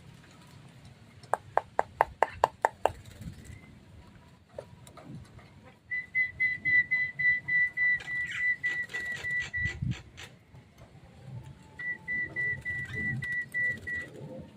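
Bird whistling: a quick run of sharp clicks, then a string of even, high whistled notes about four a second, and a shorter string of the same notes a couple of seconds later.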